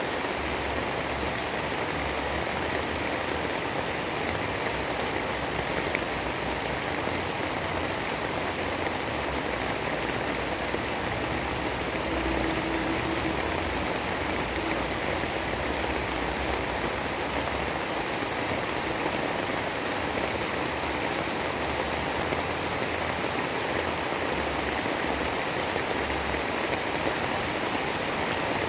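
Steady rain falling, an even, unbroken hiss with no thunderclaps.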